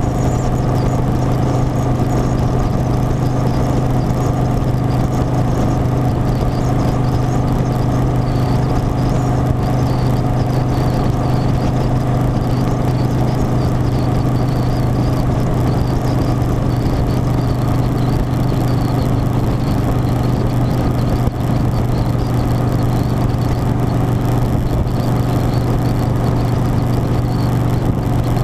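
Harley-Davidson Softail Standard's V-twin engine running at a steady pitch while cruising, with road and wind noise, and a faint wavering high whine over it.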